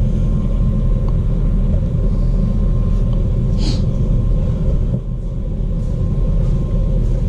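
Steady low rumble with a thin steady hum above it, the constant machinery-like background of an indoor exhibit room. A brief high squeak sounds once, a little past halfway.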